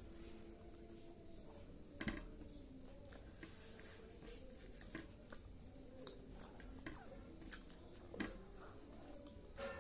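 Faint chewing and mouth sounds of someone eating chicken and rice, with a few short clicks, the loudest about two seconds in and another near eight seconds.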